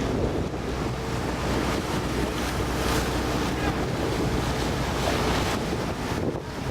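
Motorboat engine running with a steady low hum, with water rushing past the hull and wind buffeting the microphone.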